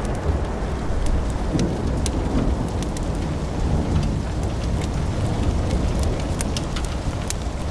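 Wood fire burning in a fireplace: a steady low rumble of flames with irregular sharp crackles and pops from the burning logs, a couple every second.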